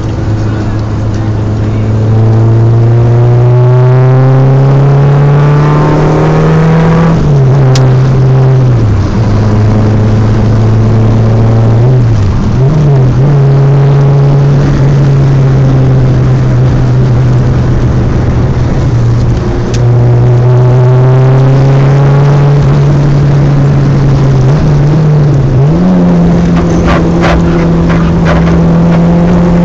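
Car engine under hard driving on a race track, heard loud from inside the cabin: revs climb slowly on a straight, fall away under braking about seven seconds in, with quick throttle blips about twelve and twenty-six seconds in, steady revs through the long middle stretch and revs rising again near the end.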